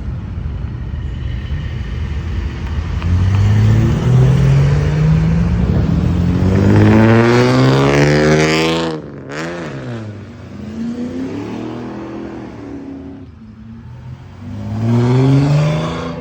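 A car engine revving hard under acceleration, its pitch climbing repeatedly. The car passes close by about nine seconds in with a sudden drop in pitch, and near the end another engine revs up with a rising pitch.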